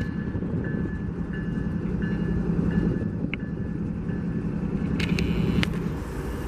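Diesel locomotives running steadily, a low engine rumble, with a faint beep repeating about once every two-thirds of a second in the first half and a few sharp clicks near the end.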